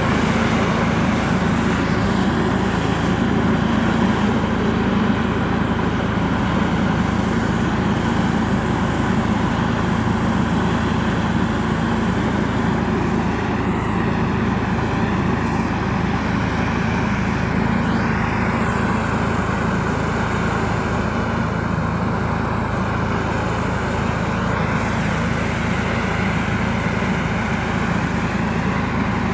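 Hattat B3065 tractor's engine running steadily, powering the orchard sprayer.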